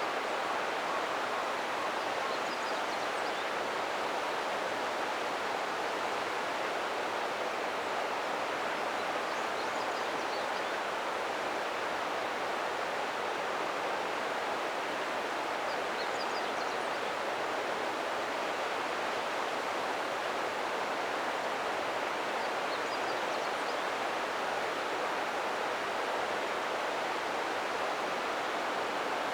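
Ōta River flowing: a steady, even rush of running water.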